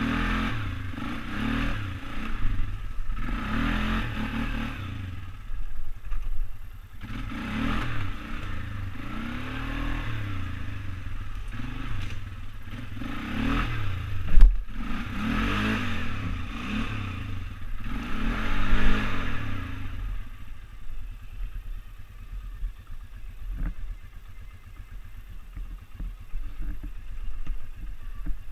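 ATV engine being ridden, revving up and falling back in pitch every couple of seconds, with rattling from the machine and one sharp knock about halfway. For the last several seconds the engine runs lower and steadier.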